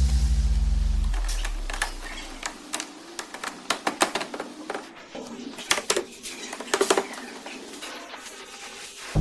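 Music fades out over the first two seconds, followed by a run of irregular light clicks and taps.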